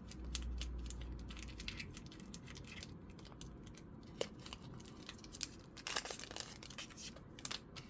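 Foil booster pack wrapper crinkling and tearing open, with many small sharp crackles of the foil being handled.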